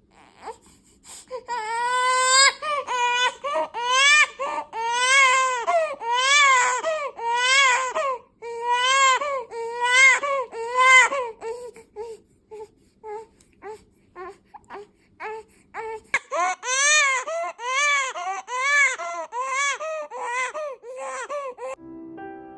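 A one-month-old baby crying hard in repeated wails about one a second, easing to short whimpers midway, then wailing again; crying the parent takes for infant colic. Piano music comes in at the very end.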